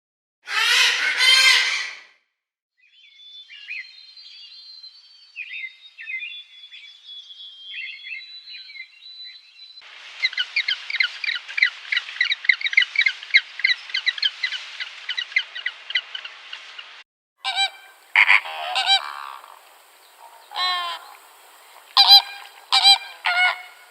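Waterfowl calls in several takes: a loud honk near the start, faint high chirps, a long stretch of dense flock chatter, then a run of separate honks near the end.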